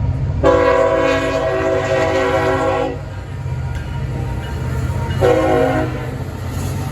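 Freight locomotive's air horn sounding a long blast, then a shorter one about two seconds later, over the steady rumble of a fast-moving intermodal freight train passing. The horn blasts are a horn salute.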